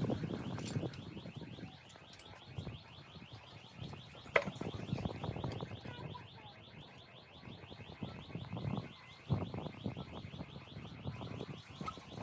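A fast, steady high-pitched chirping repeated many times a second, with intermittent low rustling and a sharp click about four seconds in.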